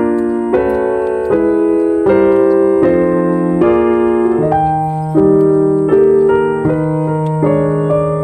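Background piano music, a gentle run of chords with new notes struck about every half second to a second.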